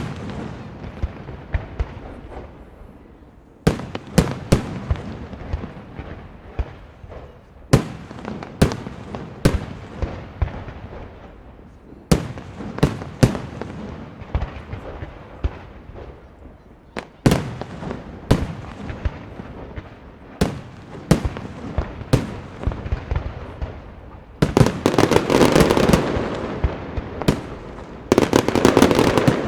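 Aerial fireworks display: a quick series of shell bursts, each a sharp bang with a rolling echo. Near the end it builds into a dense barrage of overlapping bursts.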